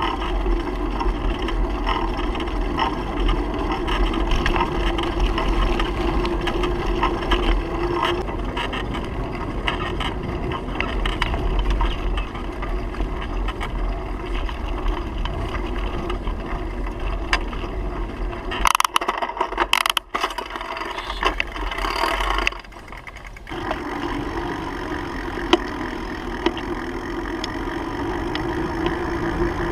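Riding noise of a bicycle: wind rumbling on the microphone with a steady hum and many small rattling clicks. The rumble drops away for a few seconds about two-thirds through, then returns.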